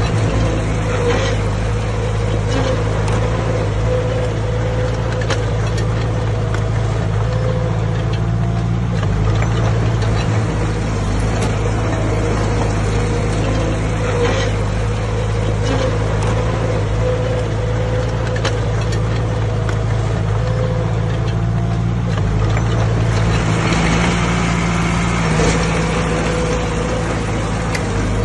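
Bulldozer's diesel engine running steadily under work, with a few sharp clanks scattered through.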